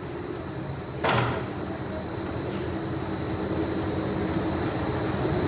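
Factory machinery running steadily, with a constant high whine over a low hum, and one sharp metallic clack about a second in.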